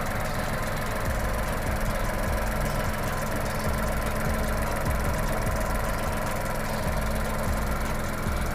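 Skoda Fabia 1.2-litre three-cylinder petrol engine idling steadily after a new timing chain has been fitted in place of a stretched one.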